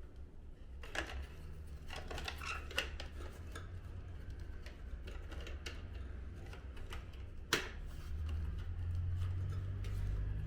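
Scattered small clicks and clinks of plastic and metal parts being handled and fitted as a Daikin F36FTNS air conditioner's indoor unit is put back together, with one sharp click about three quarters of the way through. A low steady hum runs underneath and gets a little louder near the end.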